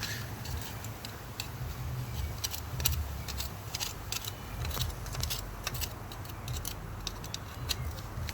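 Irregular metallic clicks and clinks of hand tools and small metal parts being handled under the hood of a car, over a steady low rumble.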